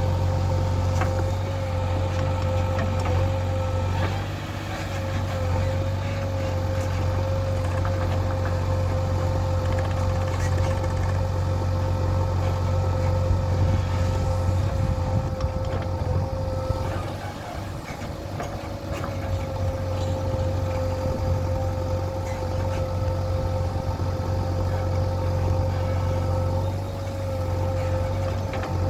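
Heavy diesel machinery running steadily: a deep engine note under a high, slightly wavering whine. The engine eases off briefly three times.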